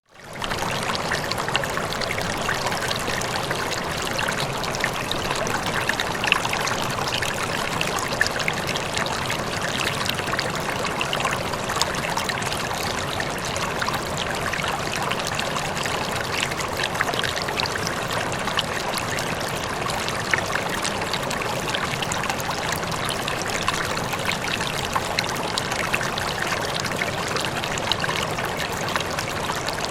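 Running water, a stream flowing and trickling steadily with small splashes, after a brief dropout right at the start.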